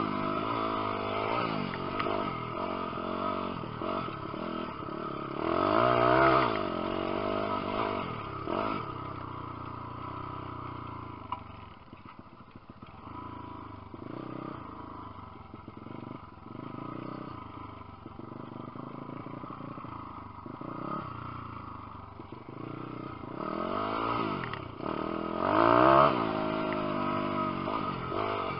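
150cc single-cylinder pit bike engine being ridden hard, its pitch climbing and dropping repeatedly with the throttle and gear changes. The loudest surges come about six seconds in and again near the end.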